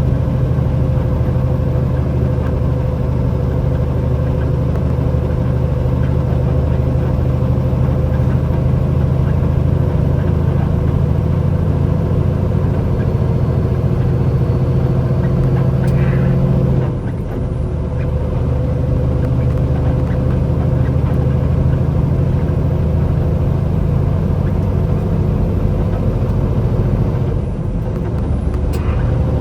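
Truck engine running with a steady low drone, briefly dropping in level twice, past the middle and near the end.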